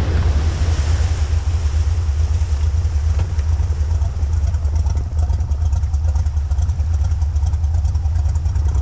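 Cessna 172 XP floatplane's six-cylinder Continental engine and propeller running steadily at low power on the water after touchdown, a deep hum. A splashing, rushing hiss of water fades out in the first second or two as the plane slows.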